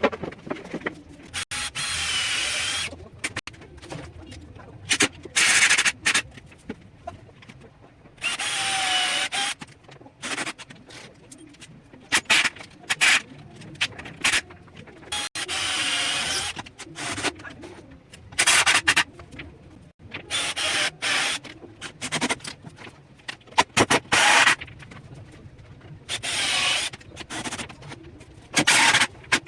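A handheld power tool working MDF, run in short bursts of a second or so, about a dozen times, its whine wavering in pitch as it loads, with small knocks and clicks between bursts.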